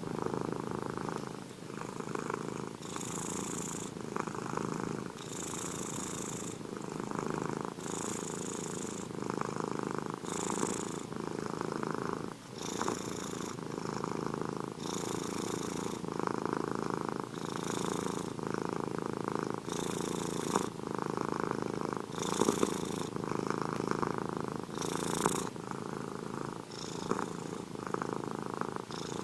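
Domestic cat purring steadily and continuously. The purr swells and eases in a slow, regular cycle about every two and a half seconds, with a soft hiss at the top of each swell.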